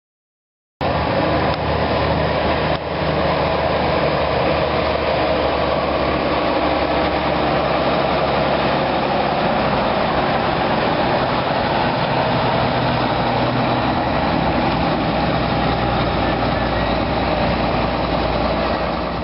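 Mack B-model dump truck's Thermodyne diesel engine running steadily at a constant speed, loud and close, with no revving. It starts abruptly about a second in.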